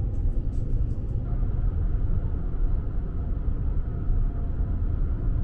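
Steady low rumble of a moving vehicle, with a few faint ticks in the first second.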